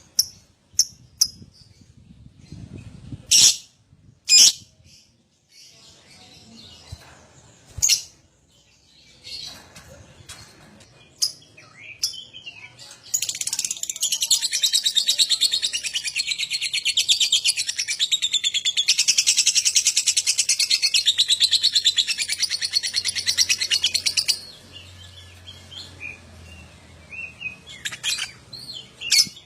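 Lovebird calls: several sharp, loud chirps and squawks first, then a long, rapid, high-pitched chattering trill of about ten seconds, the lovebird's 'ngekek' song, followed by a few short chirps near the end.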